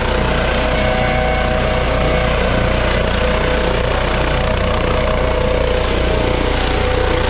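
Air ambulance helicopter's rotor and turbine engines running steadily: a rapid rotor beat under a steady whine.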